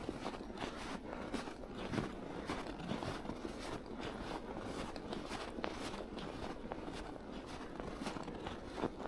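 Footsteps crunching in snow, a steady walking pace with dense crackling under each step.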